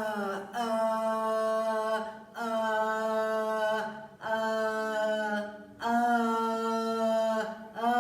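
A woman's voice chanting long, held "ah" tones on one steady pitch, about four in a row with short breaths between. This is vocal toning for the heart chakra, with the sound pushed down into the chest.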